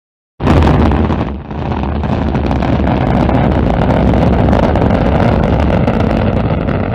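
Rocket engines roaring at launch, a deep, dense roar with crackling through it. It cuts in suddenly about half a second in, dips briefly a second later, then holds steady and loud.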